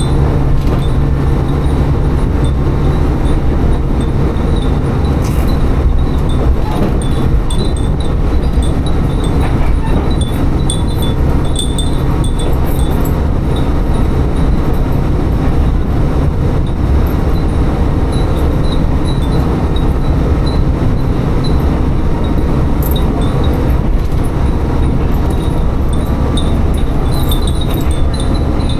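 Tsugaru Railway diesel railcar running between stations, a steady loud rumble of engine and wheels on the rails heard on board. Faint, scattered tinkling of furin wind chimes hung in the car rings over it.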